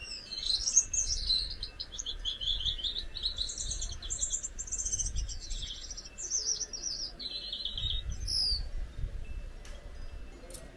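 Gouldian finch singing: a run of rapid, high, buzzy notes lasting about eight seconds, ending with a short falling whistle.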